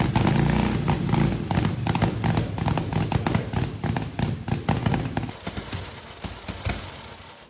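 Motorcycle exhaust popping and crackling in a rapid, irregular string of bangs over the engine's rumble, the effect of a pop-and-bang ignition setup. The rumble drops away in the last couple of seconds and the pops thin out and fade.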